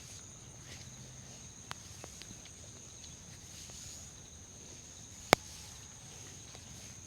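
Hands working a head during a massage: scattered soft taps and rubbing, with one sharp slap or click about five seconds in. A steady high-pitched whine runs underneath.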